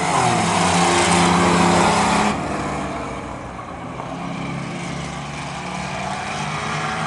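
A pack of racing trucks running at full throttle around a short oval, their engines loud and close for the first two seconds, then dropping suddenly to a quieter, steady drone as the field pulls away.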